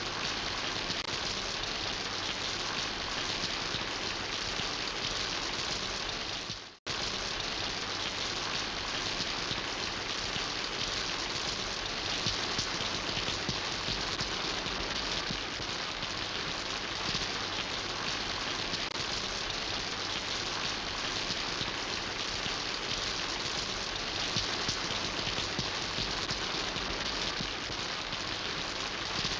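Steady rain falling on surfaces, an even hiss with patters of drops. It cuts out for a split second about seven seconds in, then resumes.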